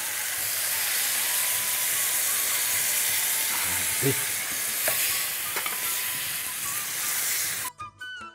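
Cucumber, onion and tomato pieces sizzling steadily in hot oil as tamarind water is poured in and stirred with a wooden spatula, with a few light knocks. Background music takes over near the end.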